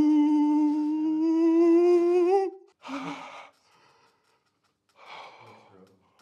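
A person's voice holding one long, loud vocal note that rises in pitch just before it stops, followed by a short second cry and faint breaths.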